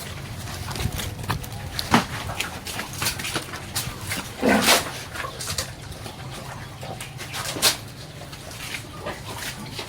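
A pig calls once, a short squeal or grunt about halfway through, among scattered clicks and knocks in the pen.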